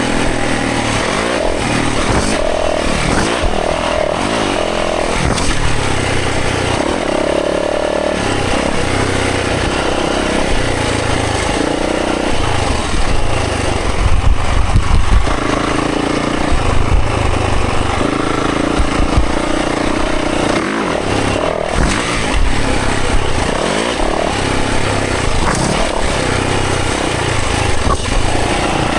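Dirt bike engine being ridden hard on a trail, revving up and dropping back over and over as the throttle opens and closes and the gears change.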